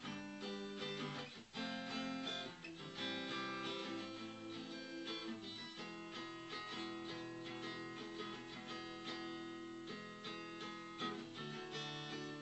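Acoustic guitar strumming chords, each left to ring before the next strum, with the chord changing every second or two.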